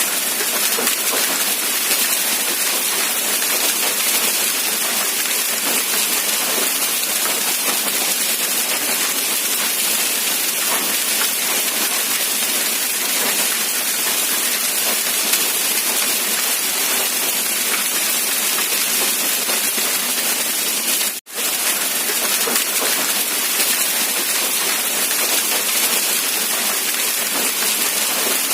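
Steady rain hiss, even and unbroken apart from a momentary dropout about 21 seconds in.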